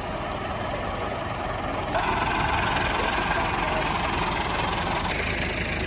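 Tractor engine running steadily, its sound changing abruptly about two seconds in and again near the end.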